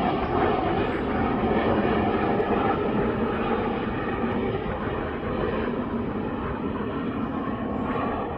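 Airplane engine noise from a passing aircraft, a steady rushing sound that slowly fades as the plane moves away.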